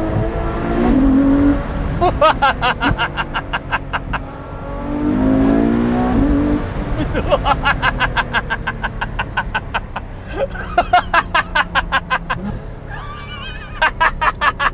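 Ferrari F12 Berlinetta's 6.3-litre V12 engine revving up twice while driving. After each pull comes a long run of rapid, evenly spaced pulses as the revs drop.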